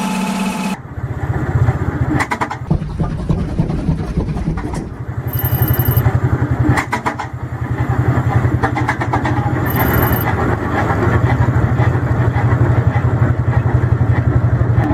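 A large engine starts up about a second in. It fires unevenly at first, then settles into a fast, steady firing rhythm.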